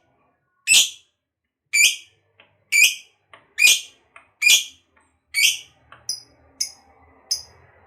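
Lovebird giving loud, shrill single calls, about one a second, six in a row. Near the end come three shorter, higher-pitched calls.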